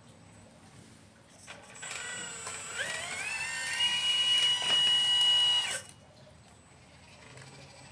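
Hydraulic pump motor of a 1/12 scale Liebherr 954 RC excavator whining as it spins up, rising in pitch, then holding steady under load before it stops suddenly.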